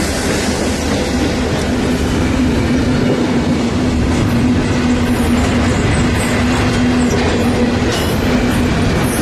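Train rolling past with the steady noise of its wheels on the rails and a steady low hum. Brief high squeaks come from about halfway through.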